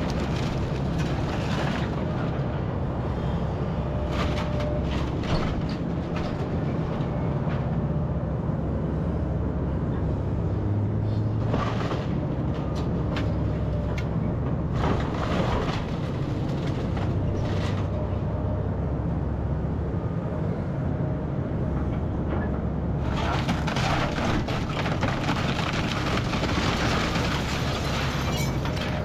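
Kobelco SK210 hydraulic excavator with its diesel engine running steadily while it tears into a house, with intermittent cracking and crunching of debris. A longer stretch of dense crashing and clattering comes near the end.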